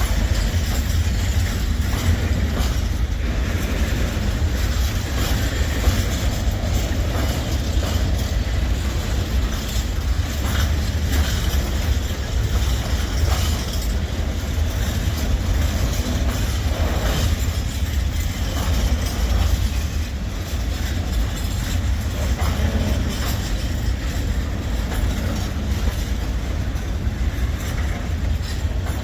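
Freight train behind a Newag Dragon 2 electric locomotive rolling steadily past: continuous deep rumble of wagon wheels on the rails, with faint scattered clicks.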